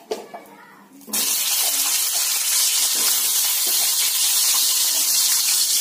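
Small whole slit brinjals going into hot refined oil in a kadhai, setting off a loud, steady sizzle that starts suddenly about a second in.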